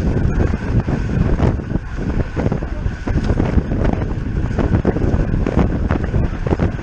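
Wind buffeting the microphone of a road cyclist's camera at racing speed, a loud rushing that rises and falls in gusts, with a faint steady high whine running under it.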